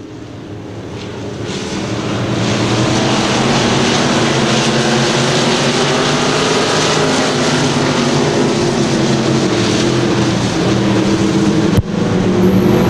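A pack of IMCA Stock Cars' V8 engines at full throttle on a green-flag restart: several engines blending, swelling over the first two or three seconds and then holding loud and steady, with a brief dropout near the end.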